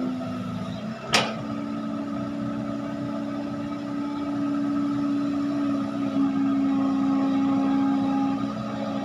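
Heavy diesel machinery running steadily, with one sharp knock about a second in, after which the engine holds a stronger, steady note until near the end.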